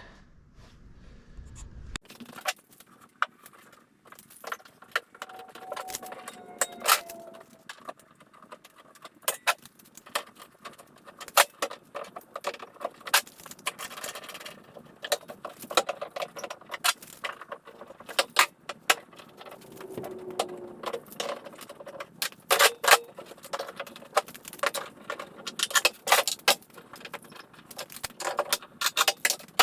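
Irregular metallic clinks, clicks and knocks of clamps and hand tools being handled, with a couple of brief squeaks.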